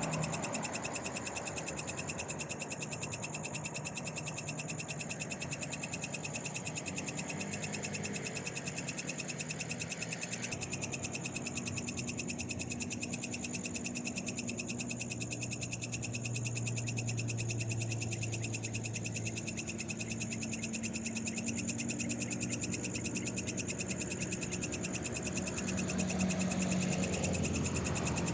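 Frogs calling in a continuous night chorus over a steady, high-pitched trill.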